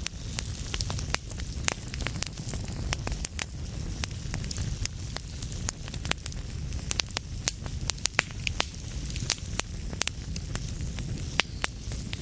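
Wood fire crackling in a fireplace: frequent sharp, irregular pops and snaps over a steady low rumble of flames and a soft hiss.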